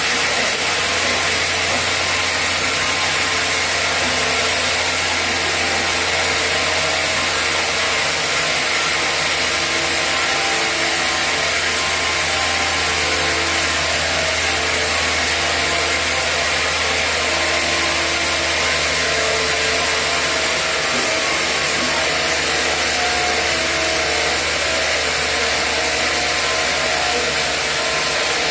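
Sawmill saw running steadily as it cuts through a chinaberry log, a continuous loud rushing noise over a constant low hum.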